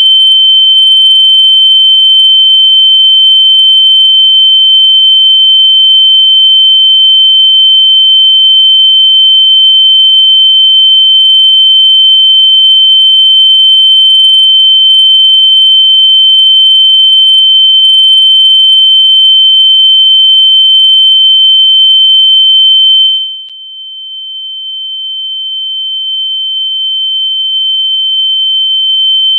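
Loud, steady, high-pitched electronic sine tone, a single pure pitch held without a break, used as a locating sound for lost AirPods. About two-thirds of the way through it drops sharply in volume, then swells gradually back to full loudness.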